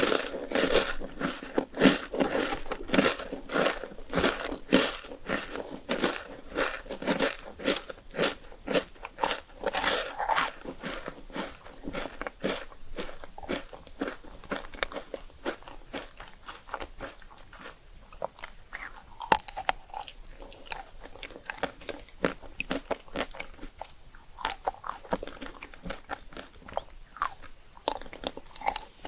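Someone biting and chewing crisp rice cakes, a rapid run of crunches that is dense and loud for the first dozen seconds, then sparser and softer.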